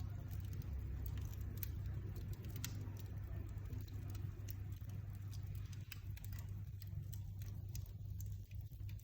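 Wood fire crackling in a fireplace: irregular sharp pops and ticks over a steady low hum.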